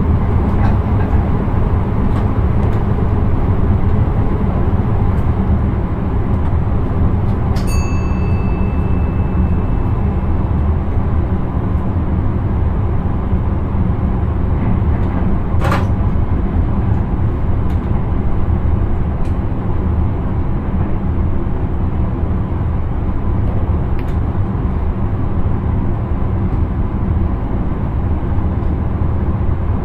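Electric intercity train running steadily, a continuous low rumble of wheels and running gear heard inside the driver's cab. A short electronic beep sounds about eight seconds in, and a single sharp click about halfway through.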